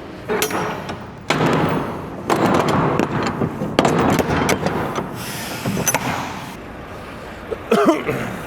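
Rear swing doors of a semi-trailer being shut and latched: a series of metal clanks and bangs from the doors and their lock bars.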